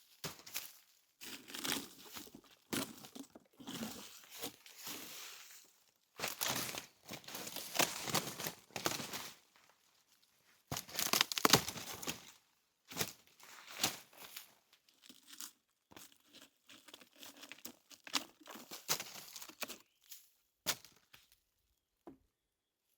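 Dry branches and forest debris rustling and crackling as they are handled, in irregular bursts with short pauses; the loudest crackling comes a little past halfway.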